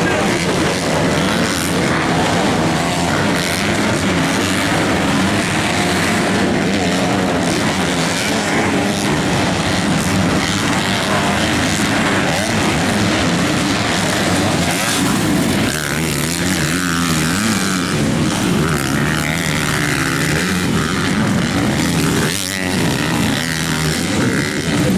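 MX2 motocross bikes racing, several engines revving up and down over one another without a break, with a brief lull near the end.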